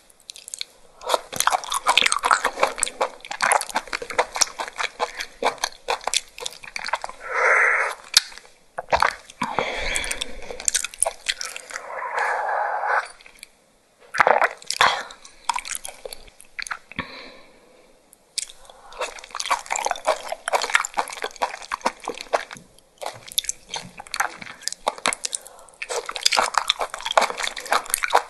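Close-miked chewing of raw seafood: wet, crunchy bites and squishy mouth sounds in dense runs, with a couple of short pauses.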